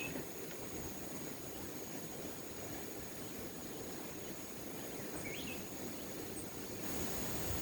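Forest ambience: a steady high-pitched insect drone over an even background hiss, with a short bird chirp about five seconds in.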